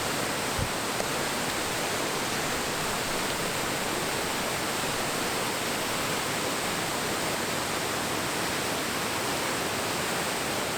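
A waterfall pouring steadily over rock cascades, as an even, unbroken rush of water.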